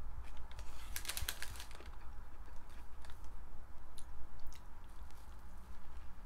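A person chewing a mouthful of soft chicken wrap close to the microphone: irregular soft mouth clicks and crackles, with a denser cluster about a second in.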